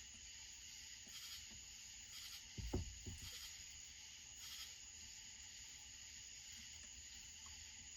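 Quiet work noise: a soft thud about three seconds in, followed by a couple of light knocks, as chainsaw parts are handled on the bench. Under it, a steady high-pitched chirring of night insects.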